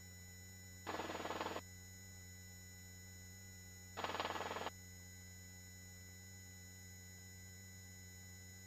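Steady low hum on a helicopter headset intercom line, broken twice by a short burst of cabin noise, about a second in and about four seconds in, as a voice-activated headset microphone opens briefly.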